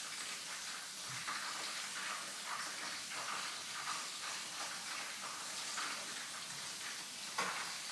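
Breaded chicken frying in oil in a frying pan: a steady, faint sizzle, with occasional light scrapes and taps of the utensil turning the pieces.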